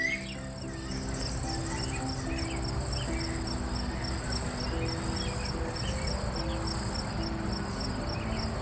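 An insect, cricket-like, trilling steadily at a high pitch with a fast, even pulse. Soft background music plays underneath.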